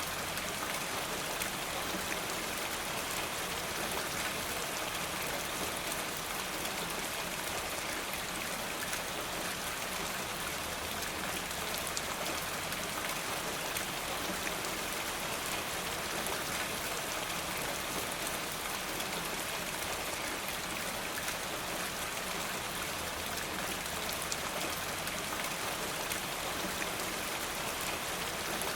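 Steady rain falling: an even hiss of many drops with faint fine patter, unchanging throughout.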